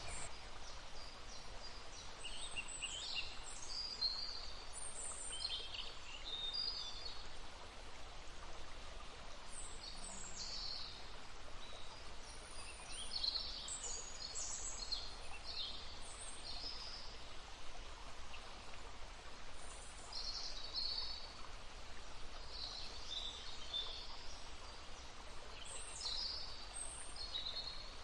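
Songbirds singing and calling, many short chirping phrases overlapping one another, over a steady murmur of running water from a stream.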